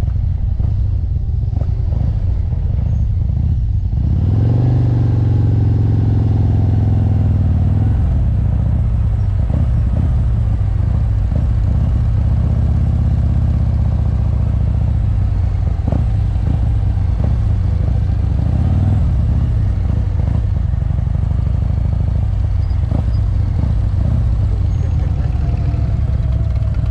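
Motorcycle engine running steadily, its pitch climbing as the revs rise about four seconds in, then rising and falling again partway through.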